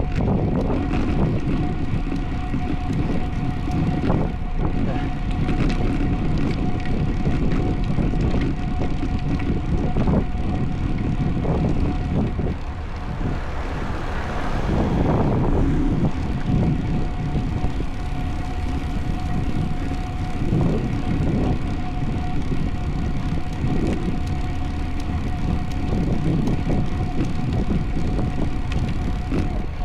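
Wind buffeting the microphone of a camera on a road bike being ridden hard, with steady rumbling road and drivetrain noise and a thin constant tone. The noise swells for a couple of seconds about halfway through.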